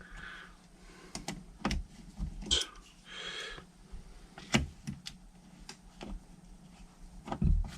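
Irregular light clicks and taps of small screws and a screwdriver being handled and fitted into a motorcycle carburettor bank, with a couple of brief soft scrapes; the loudest tap comes near the end.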